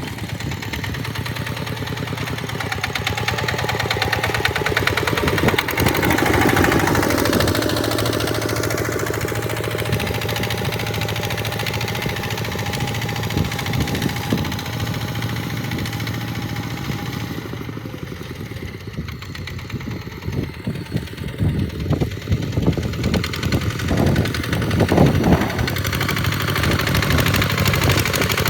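Tractor engine running steadily while ploughing sand. In the second half it is joined by irregular knocking and clattering.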